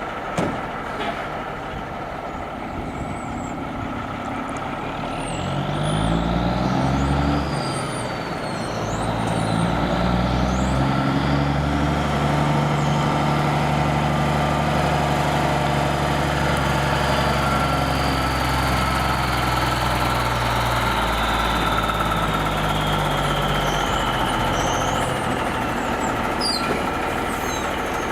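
A heavy truck's diesel engine pulling away and climbing through the gears, its pitch stepping up with each change. It then runs steadily under load with a whine that rises and falls before the engine note fades near the end.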